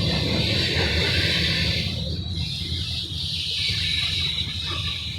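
Long freight train rolling past: a steady low rumble of the cars on the rails, with a thin high whine over it.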